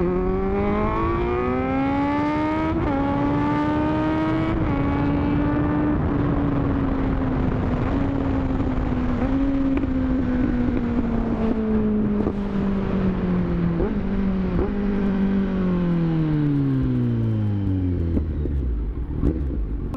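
Kawasaki Z900's inline-four engine under way, its note climbing over the first few seconds as the bike accelerates, then holding and slowly easing off, and falling steadily over the last few seconds as the bike slows. Wind rushes over the microphone throughout.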